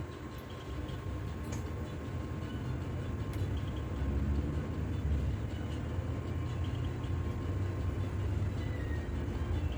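Cabin noise inside a moving double-decker bus: a steady low engine and road rumble that grows a little louder about four seconds in.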